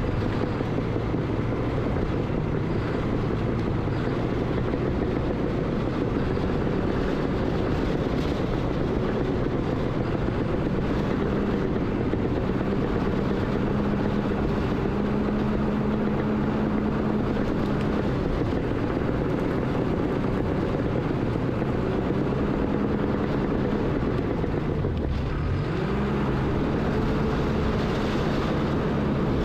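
Heavy earthmoving machine's engine running steadily under load, its revs dipping and recovering once about 25 seconds in.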